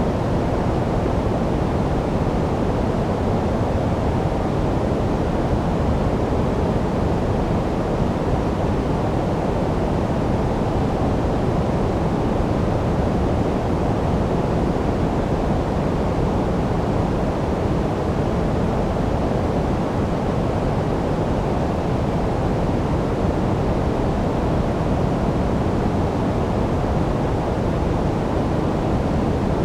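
Steady artificial sleep noise, sold as white noise: a constant, even rush without any events, weighted toward the low end so it sounds deep and dull rather than bright and hissy.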